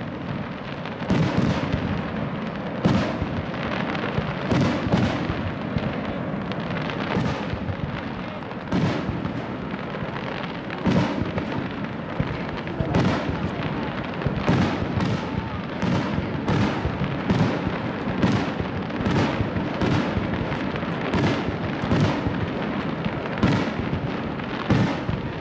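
Aerial firework shells bursting one after another, often one or two booms a second, over a continuous rolling rumble of echoes.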